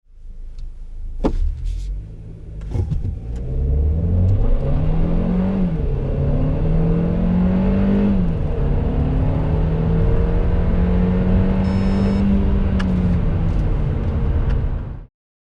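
Kia Ceed 1.5 T-GDi four-cylinder turbo petrol engine accelerating at full throttle from a standstill. The engine note rises, drops back at quick gearchanges from the seven-speed dual-clutch gearbox about five and eight seconds in, and climbs again before falling near the end. A few sharp clicks come before the pull, and the sound cuts off abruptly.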